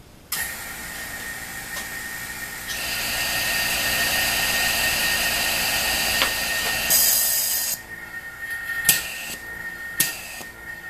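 Vacuum pump for a CNC vacuum fixture switched on, running with a steady whine under a rushing hiss of air drawn through the fixture; the hiss grows louder about three seconds in and drops away near eight seconds, leaving the pump running with a few sharp knocks.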